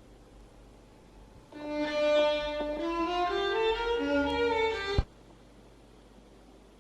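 Violin music played back from a record on a Victor JL-F44R record player, sounding for about three and a half seconds, then stopping abruptly with a thump.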